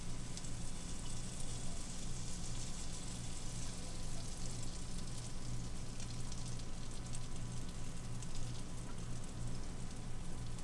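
Butter sizzling in a hot frying pan, a steady hiss with light crackling, over a steady low hum.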